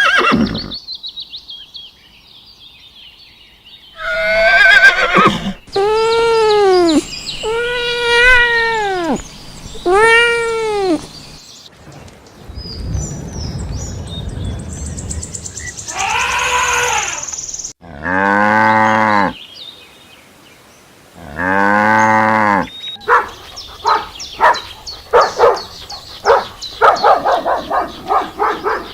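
A series of different animal calls cut one after another: three rising-and-falling calls, then two long low calls, then a rapid run of short calls near the end.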